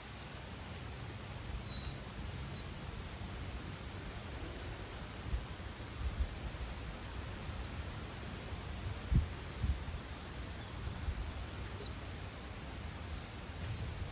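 A bird giving a run of short high chirps, about two a second, over steady outdoor hiss with low rumbles of wind buffeting the microphone.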